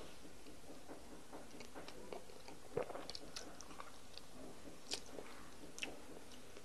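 Chewing and wet mouth sounds of someone eating fufu with egusi soup by hand, with scattered sharp smacks, the loudest a little before the middle.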